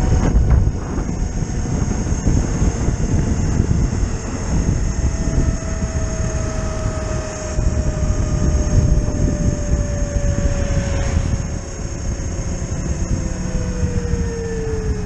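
Zero FX electric motorcycle on the move, wind buffeting the microphone over a thin electric motor whine. The whine sinks slowly in pitch and drops more steeply near the end as the bike slows.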